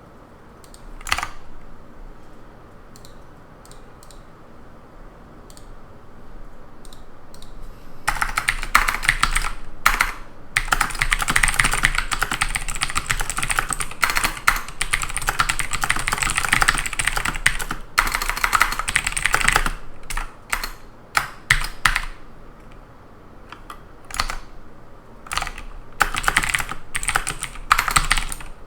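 Typing on a computer keyboard. A few isolated clicks come first, then fast, continuous typing starts about eight seconds in. It eases off past the middle and returns in short bursts near the end.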